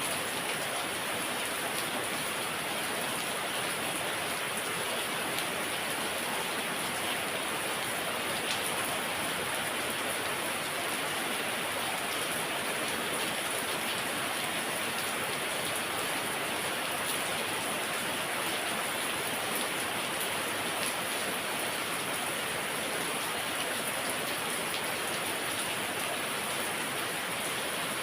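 Heavy rain falling steadily, an even hiss of rain on surfaces with no change in strength.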